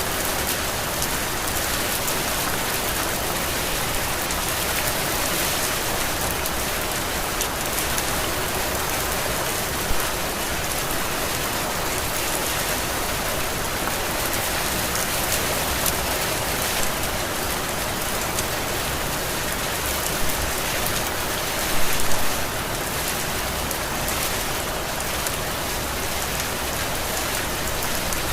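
Heavy rain falling steadily, a dense even hiss of drops, with a few louder splashes about ten seconds in and again near twenty-two seconds.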